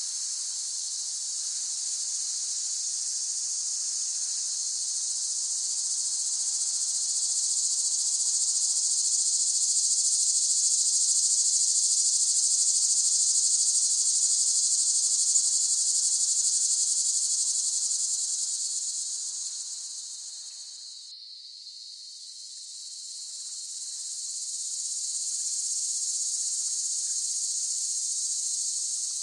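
Cicadas buzzing in a dense, high-pitched drone that swells, dies down almost completely about three-quarters of the way through, then builds back up.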